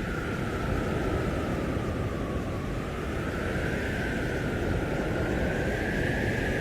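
Storm wind in a blizzard blowing steadily with a deep rumble and a howling whistle that slowly rises and falls in pitch.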